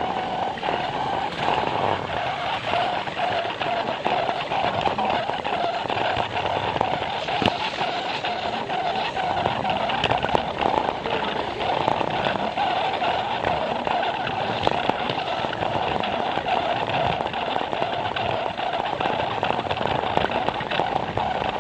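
Plarail toy train running on plastic track: a small battery motor and gears whirring steadily, with many small clicks from the wheels over the track joints, picked up by a camera riding on the train.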